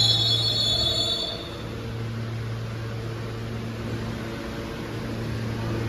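Subway train wheels squealing, the high squeal dying away in the first second and a half, then a steady low hum from the train.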